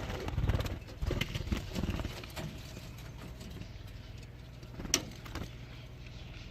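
Handling noises: a run of rustling and light knocks over the first two and a half seconds, then quieter, with one sharp click about five seconds in, over a low steady hum.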